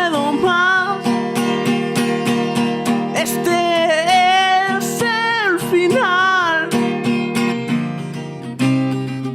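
Acoustic guitar strummed in a steady rhythm, with a voice singing a gliding melody line over it, no clear words, briefly at the start and again through the middle. The guitar carries on alone near the end.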